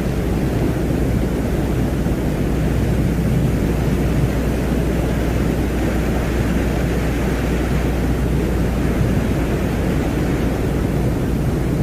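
Ambient space soundscape presented as the sound of the planet Venus: a steady, low rumbling noise drone without tones. A fainter hiss above it swells a little in the middle.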